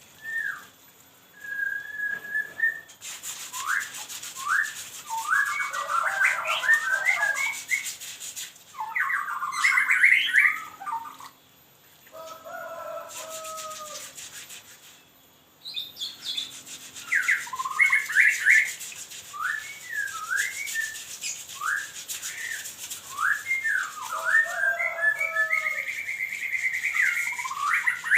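A songbird whistling and chirping: many short, sharply rising and falling whistled notes in quick clusters, with a few lower warbled phrases. Through long stretches a scratchy hiss runs underneath.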